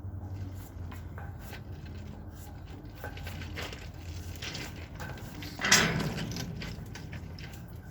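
A steady low drone of an aircraft passing overhead, with scattered knocks and rustles of handling. A loud, sudden yell about five and a half seconds in.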